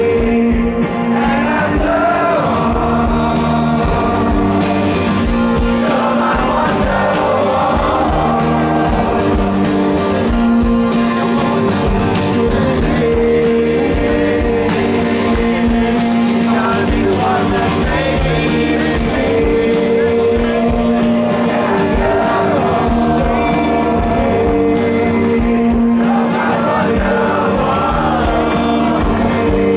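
Rock song with a lead singer over a full band: held chords and guitar under a sung melody.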